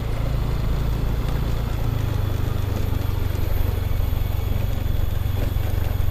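Motor vehicle engine running steadily with road noise, heard from on board while riding: a constant low rumble under an even wash of noise.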